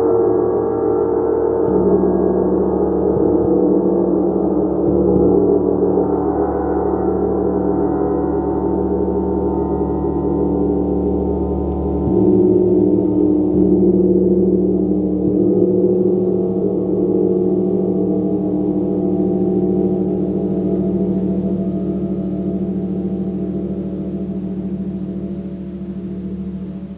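Gong played continuously, a thick wash of many overlapping ringing tones renewed by soft strokes every few seconds and slowly fading near the end.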